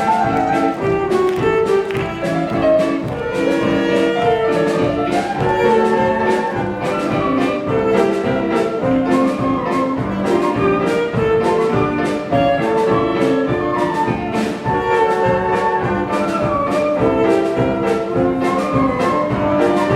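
A children's wind band of brass and saxophones plays a medley of cartoon tunes over a steady drum beat.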